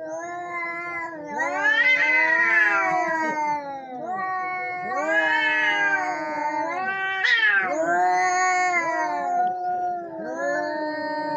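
Two cats caterwauling at each other: long, wavering yowls that overlap and keep rising and falling in pitch.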